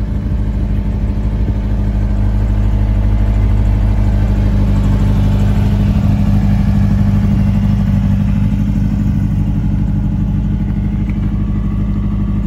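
Hillman Imp race car's rear-mounted all-aluminium four-cylinder engine idling steadily.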